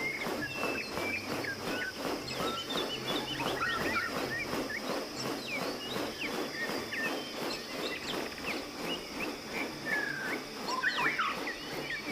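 Several birds calling with short whistled chirps and quick up-and-down notes, over a dense, evenly pulsing background chorus and a steady high hum.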